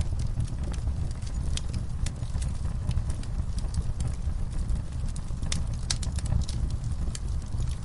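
Wood fire burning in a fireplace: a steady low rumble of flames with irregular sharp crackles and pops, a few of them louder about five and a half to six seconds in.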